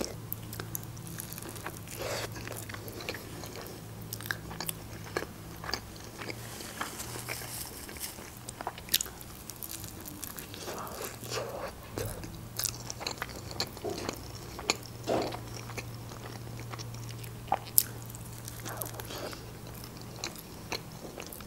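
Close-up eating sounds: biting into and chewing food, including a homemade roll, with scattered crunches and small wet clicks. A faint steady low hum runs underneath.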